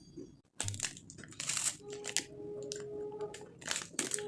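Close-up crunchy bites and chewing of food, in several short bursts, with a steady held tone sounding for about a second and a half in the middle.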